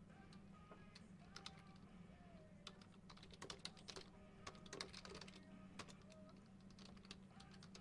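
Faint, irregular clicks and taps, clustered in the middle stretch, over a steady low hum.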